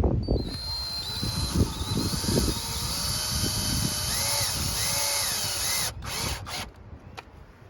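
Power drill running steadily for about five seconds, its motor whine rising and dipping in pitch, then stopping about six seconds in.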